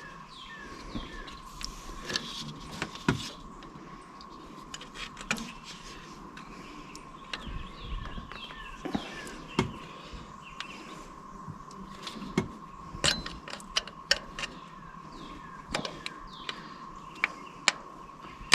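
Scattered small clicks and taps of hands handling wires and connectors on a truck's wiring, with birds chirping in the background and a steady faint high tone.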